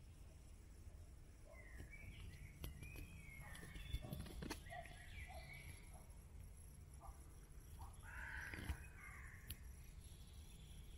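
Faint forest ambience with birds calling: harsh, rough calls in a cluster a couple of seconds in and again about eight seconds in, over a low steady rumble, with a few faint clicks.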